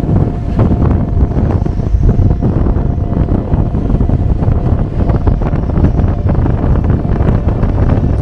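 Very strong, gusting wind buffeting the camera microphone: a loud, uneven rumble that keeps surging.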